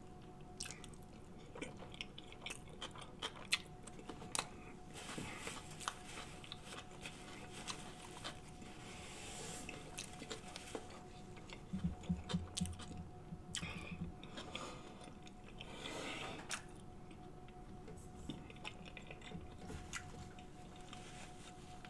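Close-miked chewing and wet mouth smacking of a person eating a seafood boil, with many short sharp clicks and a cluster of low thumps about twelve seconds in.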